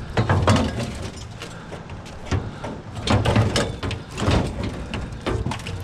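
Scrap metal being shifted and rearranged on a trailer: several separate bursts of scraping and clanking.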